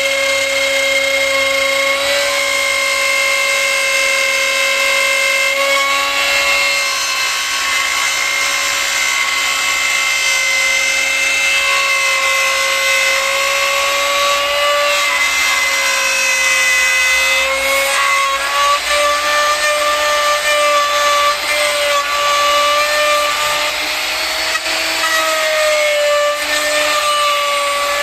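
Electric power tool running continuously on wood, a steady motor whine that wavers a little in pitch as it is loaded.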